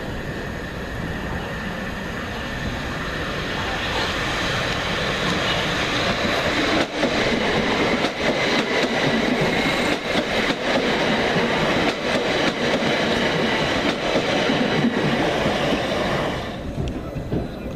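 A train running past the platform, growing louder over the first few seconds, with wheels clicking over the rail joints. It falls away sharply near the end as it clears the station.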